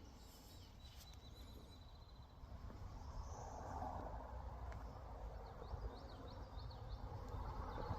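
Faint outdoor ambience: a low wind rumble and soft hiss, with a few faint high chirps.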